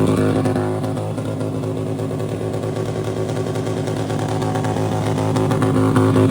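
Motorcycle engine running steadily at low revs, with a fast, even firing pulse; it grows louder near the end.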